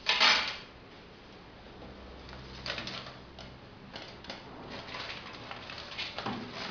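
Paper raffle entry slips being stirred and shuffled by hand, an irregular rustling, after a brief loud rustle or clatter right at the start.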